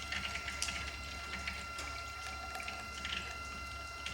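Electric water pump running with a steady high hum while 50/50 antifreeze trickles and bubbles in the open radiator filler, purging air from the cooling system, with scattered small splashes and drips.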